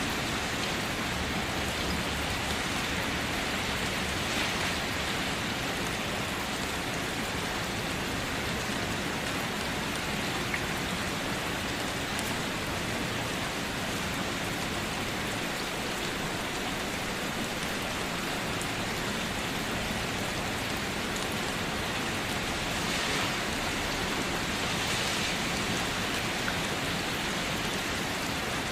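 Steady rain falling, an even hiss that swells slightly a few times.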